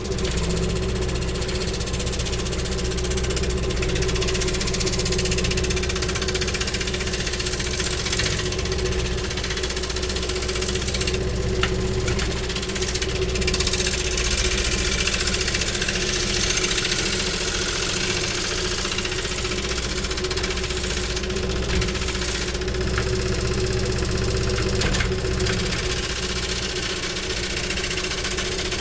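A motor-driven machine starts and runs steadily with a low rumble and a steady hum, with a few brief sharp knocks along the way.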